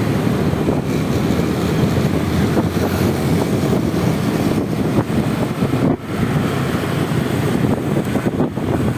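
Steady rush of wind on the microphone and road noise from a Honda Vario 125 scooter riding along, with the scooter's engine and traffic blended in; it dips briefly about six seconds in.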